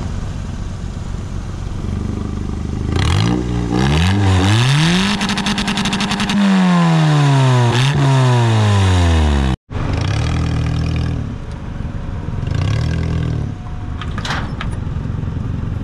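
1998 Toyota Starlet's small car engine revving up in a few quick climbs, held high, then winding down over about three seconds. After a sudden break it runs at a steadier, lower speed, with a brief clatter near the end.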